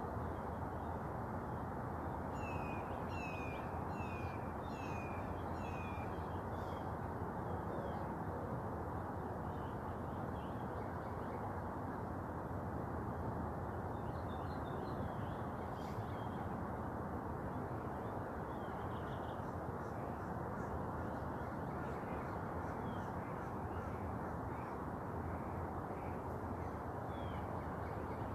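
A bird calls a run of about five short, harsh notes, roughly one every three-quarters of a second, a few seconds in, with scattered fainter calls later, over a steady rushing background noise.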